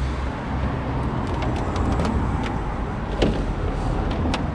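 Rummaging through dumped junk: a scattered series of light knocks and clicks, the sharpest about three seconds in, over steady outdoor background noise.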